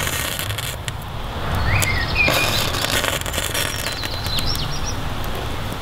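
Outdoor ambience: small birds chirping a few times over a steady low rumble.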